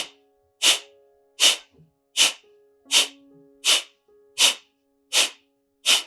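Kapalbhati breathing: sharp, forceful exhalations pushed out through the nose by pulling the belly in, one about every three-quarters of a second, eight or nine strokes in a row, with the in-breath passive and unheard between them.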